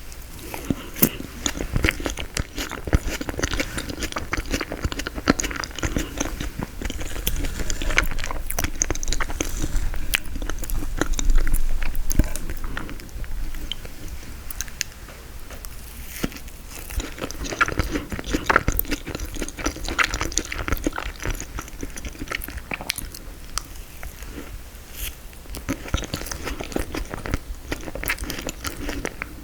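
Close-miked chewing and biting of frozen tiramisu, with crunchy, crackling bites of the icy cake and mouth sounds throughout.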